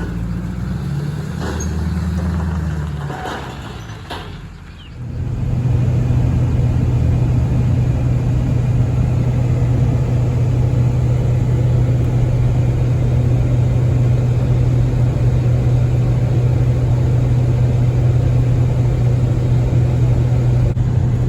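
Truck engine and road noise while driving. The engine tone shifts for the first few seconds, dips briefly about five seconds in, then settles into a steady low drone.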